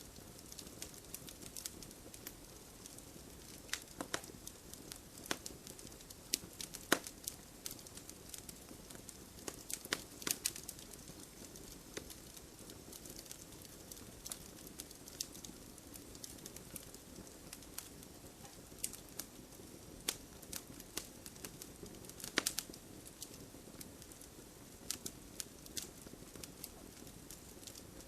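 Wood fire burning in a fireplace: a steady low rush of flame with frequent irregular sharp crackles and pops from the burning logs.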